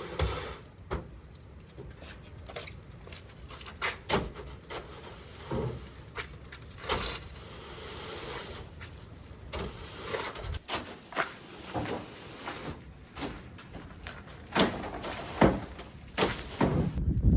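A string of irregular knocks and thumps, with scraping and rustling between them, louder and busier near the end.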